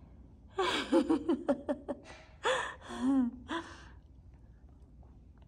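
A person's breathy, wordless vocal sounds: a quick run of short gasps and giggle-like breaths for about three seconds, starting about half a second in.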